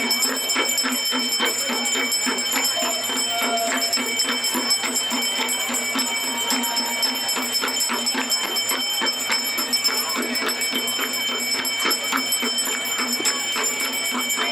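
Hand bells rung rapidly and without a break: steady high ringing tones held over a dense run of quick clapper strikes.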